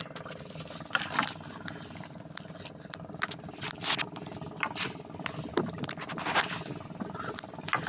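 Small boat engine running steadily, with irregular knocks, clatters and splashes from the net and catch being handled on board.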